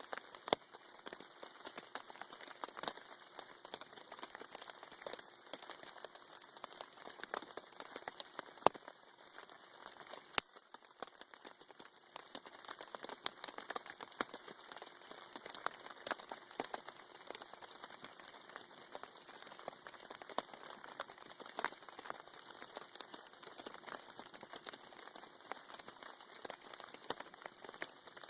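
Rain pattering steadily on a tarp overhead, with scattered sharp crackles and clicks, a few of them much louder than the rest.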